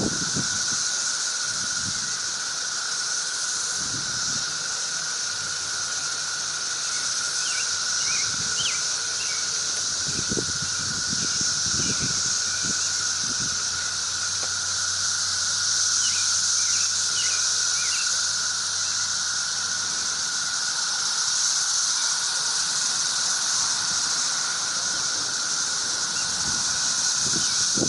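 Dense chorus of cicadas: a steady, shrill drone that never lets up, with occasional low thuds underneath.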